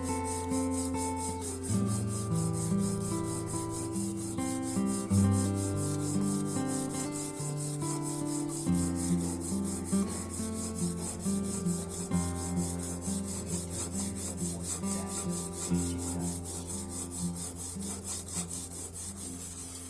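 Plane iron being slid back and forth on the oiled coarse side of a Norton combination oil stone, a steady rubbing, over background music.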